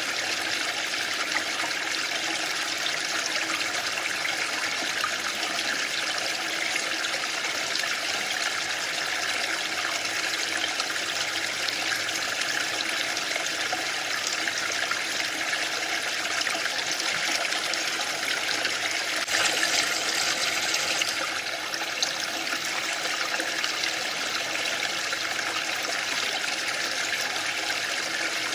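Waterfall: falling water rushing steadily, with a brief surge a little over two-thirds of the way through.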